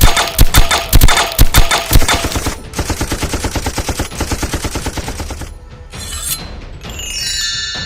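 Sound-effect gunfire: a volley of loud shots over the first two seconds, then a rapid machine-gun rattle of about ten shots a second that stops about five and a half seconds in. Near the end comes a ringing chime of several held tones.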